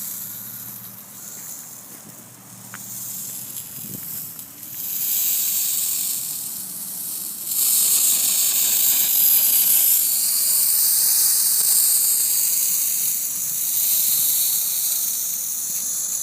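Lawn sprinkler heads spraying water: a steady high hiss that swells about four and a half seconds in and grows louder again at about seven and a half seconds.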